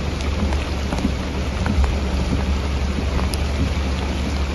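Heavy rain falling steadily, a dense hiss with scattered drop ticks over a steady low rumble.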